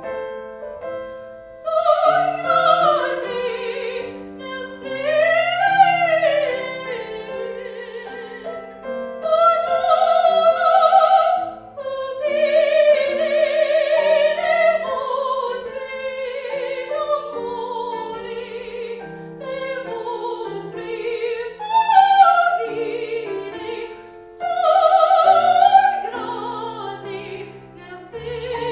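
Classical singer performing in operatic style, held notes with wide vibrato in phrases of a few seconds, over piano accompaniment.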